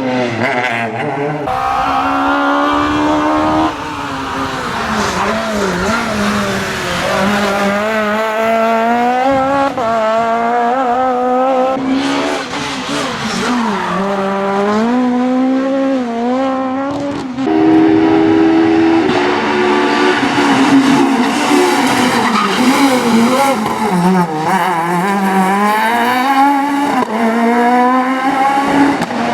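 Super 1600 rally cars' high-revving 1.6-litre naturally aspirated four-cylinder engines at full throttle, the pitch climbing and dropping over and over with gear changes and lifts. The sound jumps abruptly a few times, as one car's run gives way to another.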